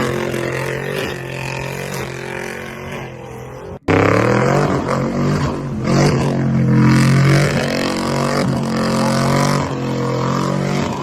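Pickup truck engine and exhaust running, its pitch rising and falling with the throttle. About four seconds in the sound cuts off abruptly and a louder engine sound takes over.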